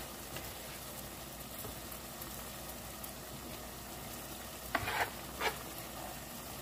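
Butter sauce with chopped onion and ginger sizzling steadily in a pot, with a few short scrapes of a spoon as it is stirred, near the end.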